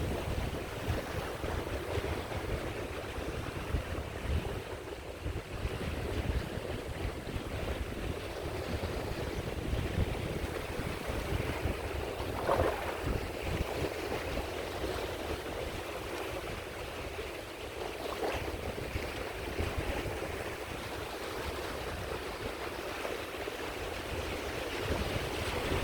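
Sea waves washing onto the shore in a steady wash, with a gusty low rumble of wind on the microphone. Two brief brighter splashes stand out, about halfway through and again a few seconds later.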